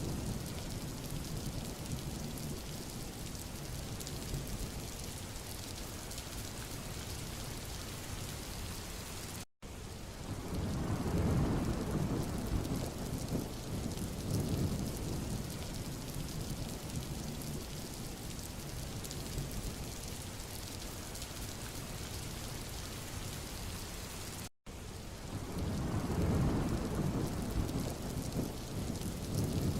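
Steady rain falling on a road surface, with deep rumbling swells that rise and fade. The sound drops out to silence for an instant twice, about fifteen seconds apart, and the rumble is strongest just after each dropout.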